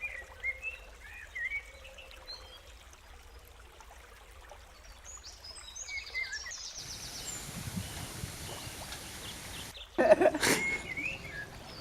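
Small birds chirping repeatedly over a faint outdoor background. About seven seconds in, the background switches suddenly to a steady hiss. About ten seconds in there is a loud, short sound, and then the chirping goes on.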